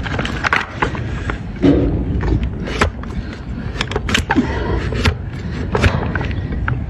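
A string of irregular sharp knocks and clicks over a steady low rumble, the kind of tool-on-hoof clatter heard during donkey hoof trimming.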